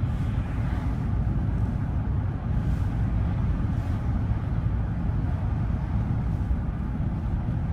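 Steady low rumble of engine and road noise inside the cab of a Dodge Ram pickup truck while it is being driven.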